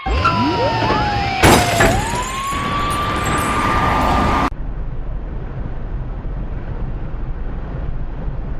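Vehicle crash: squealing that glides in pitch, then a loud impact with shattering about one and a half seconds in. The squeal holds at one pitch until an abrupt cut about halfway, followed by steady low road noise.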